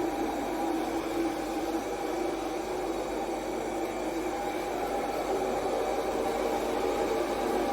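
Ultenic T10 Elite robot vacuum running: a steady, even whir of its suction motor.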